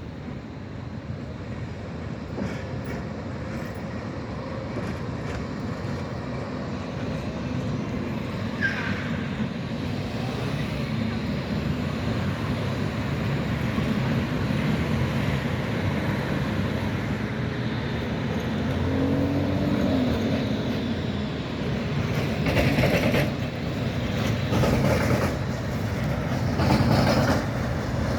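Tram running on street track, growing louder as it approaches, with a short wheel squeal about a third of the way in and a series of loud knocks from the wheels and bogies near the end as it passes.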